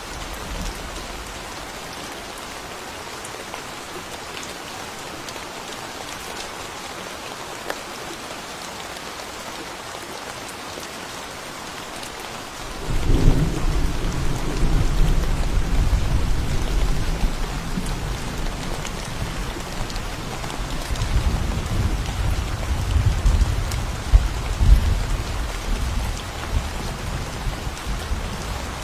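Steady rain falling, then, about halfway through, a long deep roll of thunder breaks in suddenly and rumbles on, swelling again near the end.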